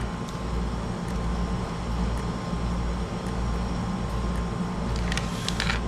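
Steady low mechanical hum, with a few small clicks near the end.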